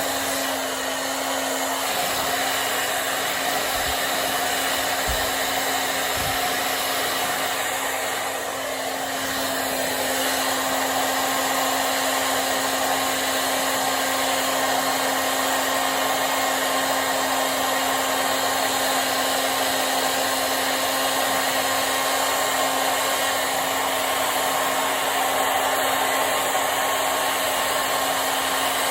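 Hair dryer blowing continuously, a steady rush of air with a constant motor hum, drying long hair; the sound dips slightly for a moment about eight seconds in.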